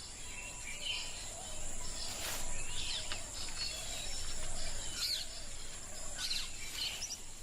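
Rainforest ambience: a steady high-pitched insect drone with scattered bird chirps and calls.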